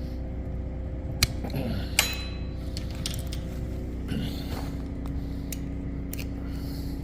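A handful of sharp metallic clicks and clinks from hand tools working the end of a Massey Ferguson DL260 loader's hydraulic cylinder, one about two seconds in ringing briefly, over a steady low hum.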